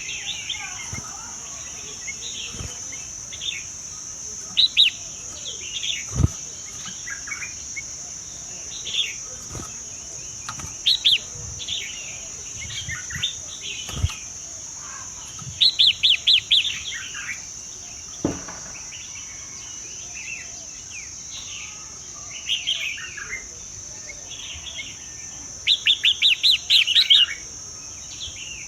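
Birds chirping and calling over a steady high-pitched insect drone. Short chirps come scattered throughout, with two louder runs of rapid chirps, one about halfway through and one near the end.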